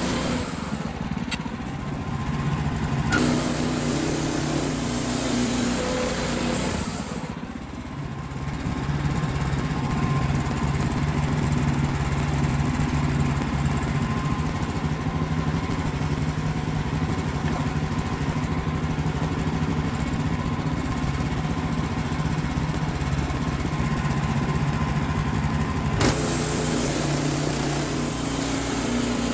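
WoodMizer LX55 band sawmill's engine running steadily, its note shifting a few times and dipping briefly about seven or eight seconds in.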